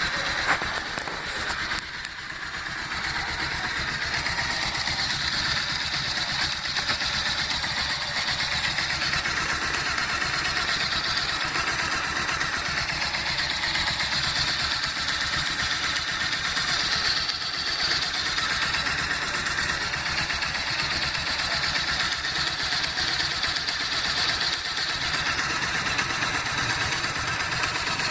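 Bajaj Pulsar 220 single-cylinder engine idling steadily with a persistent knock, a "kek kek kek" that comes up when the engine is hot. Dealer mechanics have replaced the balancer, cam tensioner, timing chain and piston without curing it, and the owner suspects the connecting rod.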